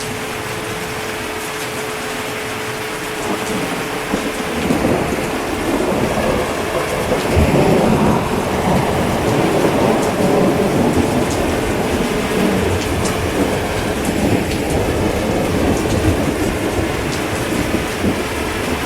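Steady heavy rain with a low rolling rumble of thunder that builds about four seconds in and goes on under the rain.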